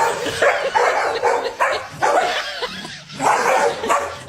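A dog barking over and over, about two or three short barks a second.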